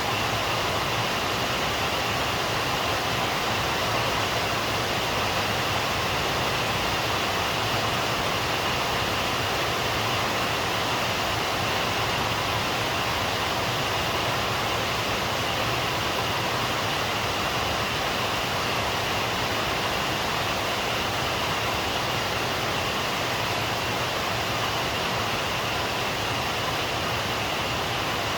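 Steady heavy rain falling, an even hiss with no breaks or thunder.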